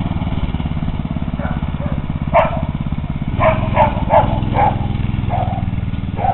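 Mini bike's small engine running steadily. Several short, sharp calls sound over it in the second half.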